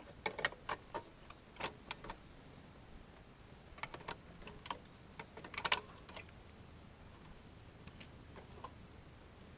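Metal hand tools clicking and clinking on a small push mower engine as a cylinder head bolt is worked loose, in irregular clusters of sharp clicks.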